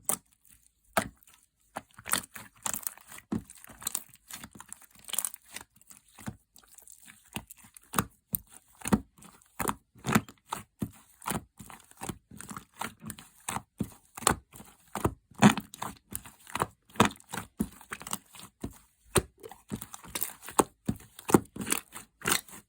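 Yellow slime being squished and pulled by hand, giving irregular sticky pops and crackles that come thicker in the second half.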